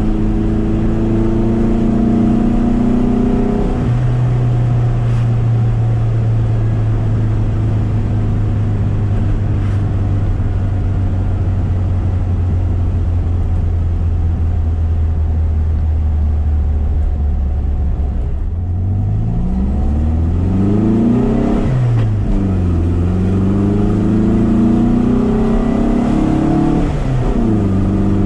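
1973 VW SP2's air-cooled flat-four with twin 40 carburettors and stainless exhaust, heard from inside the cabin while driving. The engine note drops with an upshift a few seconds in and holds a long steady cruise that sags slowly. Then it accelerates hard through the gears, its pitch climbing and falling back at upshifts about twenty and twenty-seven seconds in.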